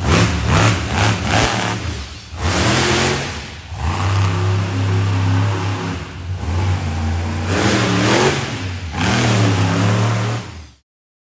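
Monster truck engine revving in repeated loud bursts, dropping back to a steadier lower run between them. The sound cuts off abruptly near the end.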